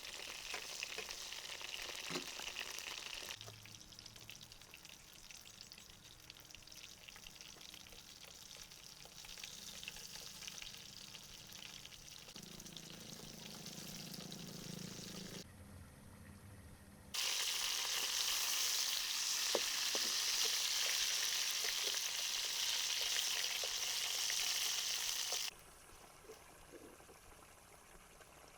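Food sizzling in hot oil in a pan, in several cut-together shots. It is loudest from about 17 s to 25 s and quieter in between.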